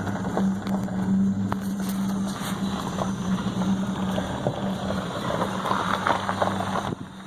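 A steady low motor hum that stops near the end, with wind rustling on the microphone.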